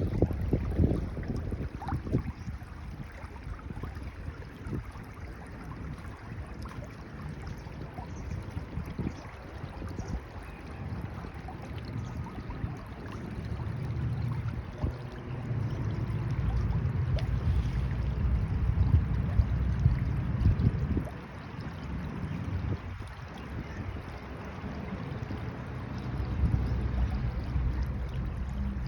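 Water of a stream flowing, an even rushing noise, with wind buffeting the microphone. It swells louder for several seconds and drops back suddenly about two-thirds of the way through.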